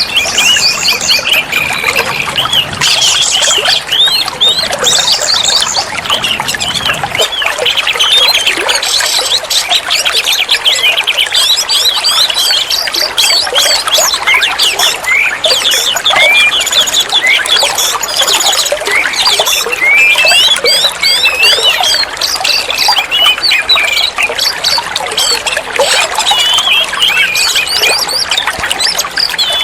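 Oriental magpie-robin (kacer) singing continuously: a fast, varied stream of chirps, whistled notes and trills with hardly a pause.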